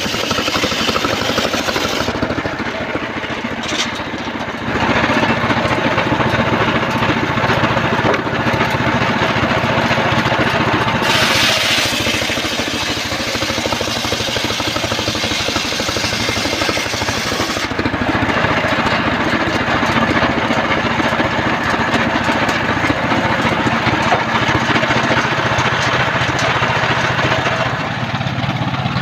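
Engine-driven homemade circular sawmill running while sawing trembesi (rain tree) logs. It gets louder about five seconds in and stays steady after that.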